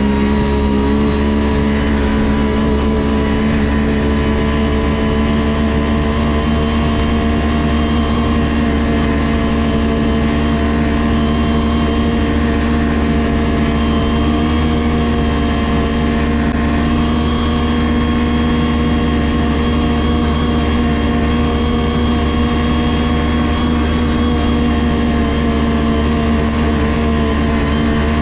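Ski-Doo GSX 600 HO snowmobile's two-stroke twin engine running at a steady speed, its pitch holding constant throughout.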